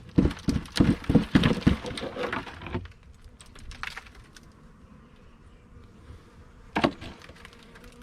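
Wooden beehive parts being handled as a hive is opened: a quick run of clicks and knocks for about three seconds, then a few faint ticks and one sharper knock near the end.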